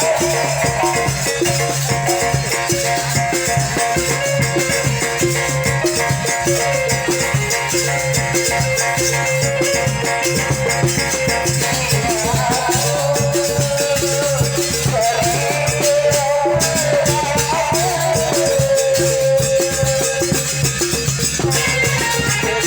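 Sasak ale-ale ensemble playing traditional Lombok music: dense, driving percussion with a rattling, shaker-like pulse under a wavering melody line.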